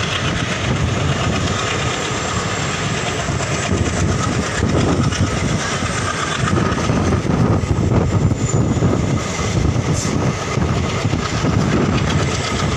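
Running noise of a moving passenger train heard from inside the coach: a steady noise of wheels on the rails with a continual rattle.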